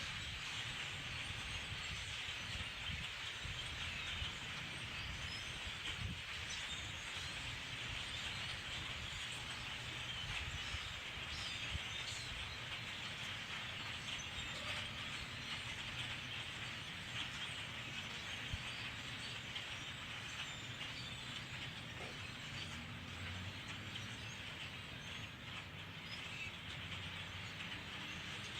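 A huge flock of birds calling all at once, a dense, unbroken chatter of countless overlapping chirps, with a low rumble underneath.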